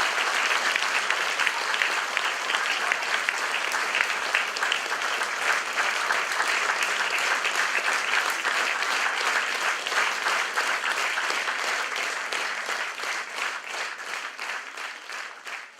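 Audience applauding, a dense even clatter of many hands that thins out near the end into fewer, separate claps and fades away.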